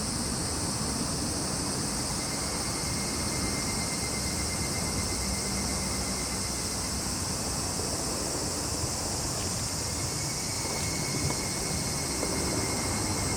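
Summer insect chorus of cicadas and crickets: a steady, unbroken high sizzle, with a faint pulsing trill lower down coming in about two seconds in. A low rumble runs underneath.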